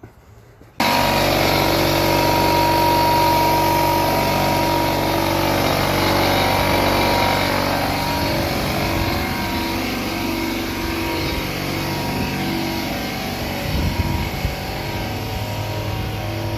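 Bostitch pancake air compressor starting about a second in and running, a loud steady motor and pump drone with a thin whine on top.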